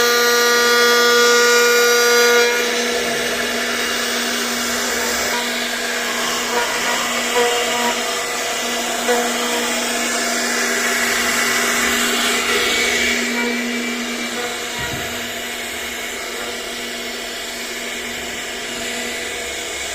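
CNC router spindle running with a steady whine while the bit cuts into wood. The cutting noise eases off about twelve seconds in, leaving the spindle hum.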